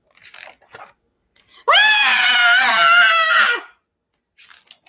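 A woman's voice letting out one long, high-pitched, loud scream lasting about two seconds, beginning a little under two seconds in: a read-aloud voicing of a cartoon elephant's scream of alarm at a bird on his head.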